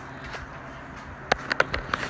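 Electric fan running with a steady hum, then a few sharp clicks in quick succession from about 1.3 s in.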